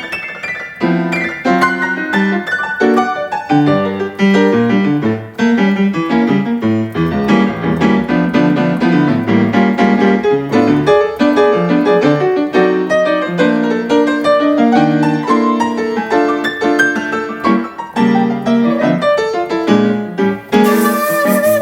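Piano playing a flowing passage of chords and melody on its own. About a second before the end, a shakuhachi comes in with a held, wavering note.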